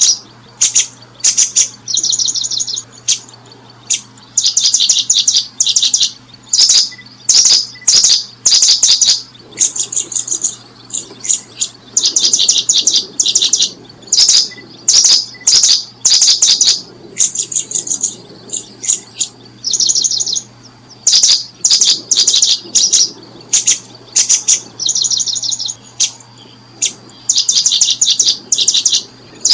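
Bird chirping in loud, high-pitched rapid trills, one burst after another with short gaps.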